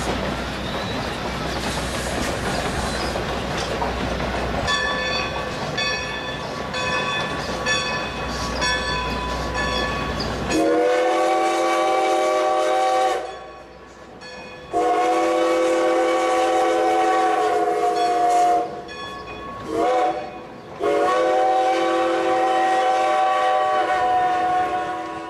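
A train rumbles along with a metallic ringing strike repeating about every 0.7 s. From about ten seconds in, a multi-chime locomotive whistle blows a steady chord in four blasts: long, long, short, long. That is the standard grade-crossing signal.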